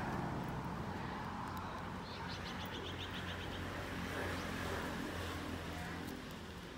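Outdoor ambience with a steady low rumble. A bird gives a short, rapid high trill of about ten notes a second near the middle.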